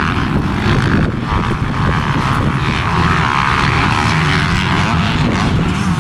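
250 cc motocross dirt bike engines being ridden hard, the pitch rising and falling as the throttle opens and closes.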